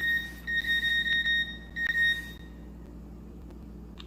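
A steady, high-pitched electronic beep, broken twice by short gaps and crossed by a few light clicks, stopping a little over two seconds in.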